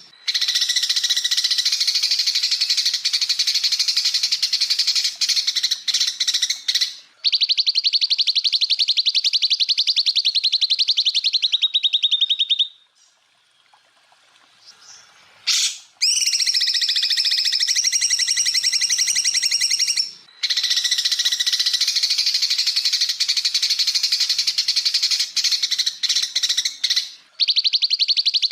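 Cucak ijo (green leafbird) singing in long runs of very rapid, rattling repeated notes, the 'tembakan' rapid-fire phrases. There is a pause of about three seconds near the middle.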